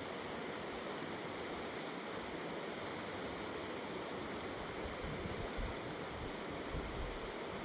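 Fast-flowing mountain river rushing steadily, with a few faint low bumps in the second half.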